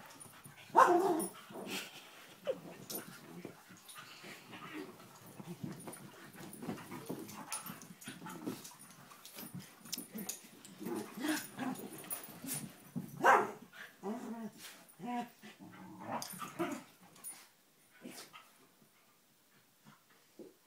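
Pet dogs play-fighting, growling and scuffling in irregular outbursts, with two louder sharp outbursts about a second in and about two-thirds of the way through. It dies down near the end.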